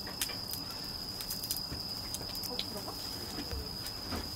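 Night insects chirring in one steady, unbroken high trill, with scattered sharp clicks and faint voices in the background.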